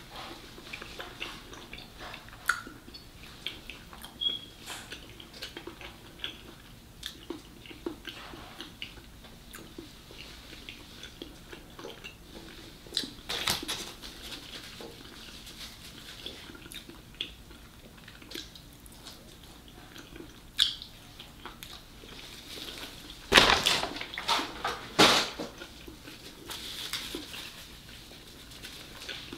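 Close-miked eating sounds: chewing and crunching of fried coconut shrimp, with scattered small clicks and smacks. Two louder bursts of noise come near the end.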